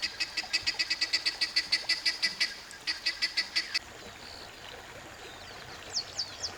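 A bird's rapid series of sharp repeated calls, about six a second, in two runs with a short break about two and a half seconds in, followed near the end by a few quick falling chirps.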